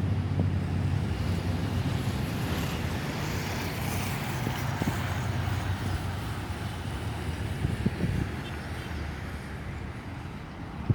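Airbus A320 airliner's jet engines on landing approach, the noise swelling to a peak a few seconds in and then slowly fading as it passes, with wind on the microphone.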